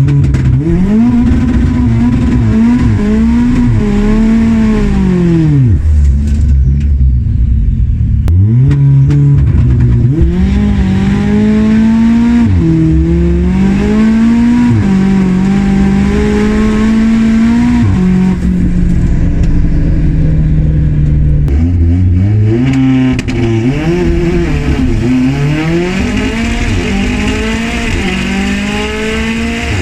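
Turbocharged Saab race car engine with screamer pipes, revving hard, its pitch climbing and dropping again and again. A loud rushing hiss joins in near the end.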